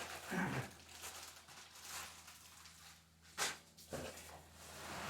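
Cardboard packaging being handled and shifted while a generator is unboxed, in a few short rustling, scraping bursts.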